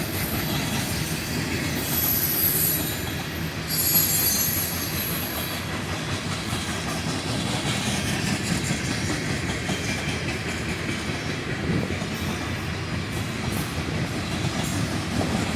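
Freight train cars rolling past close by, a steady rumble of steel wheels on the rails. High-pitched wheel squeal comes and goes over the first several seconds, then fades, leaving the rumble.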